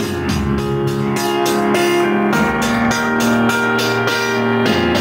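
Music playing through Logitech Z313 2.1 desktop speakers and subwoofer, bass boost on: a track with a steady drum beat under sustained keyboard chords.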